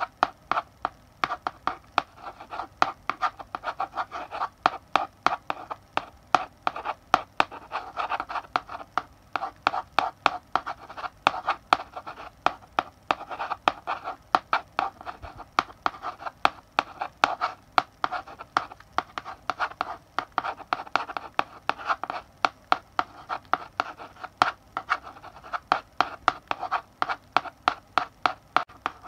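Chalk writing on a blackboard: a continuous run of sharp chalk taps and short scratching strokes, several a second in an uneven rhythm.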